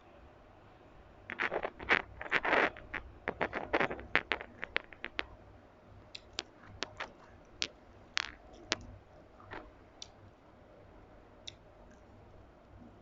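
Close-up eating sounds from a meal of rice, dal and fish: a quick run of clicks, scrapes and crunches, densest in the first few seconds, then sparser single clicks.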